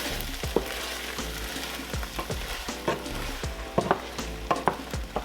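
Chicken stir fry sizzling in a skillet, with a utensil knocking against the pan several times as it is stirred. The meal is cooked through, at the end of its time in the pan.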